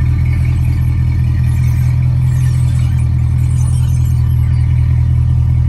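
Car engine running steadily, a loud low rumble with a fast even pulse.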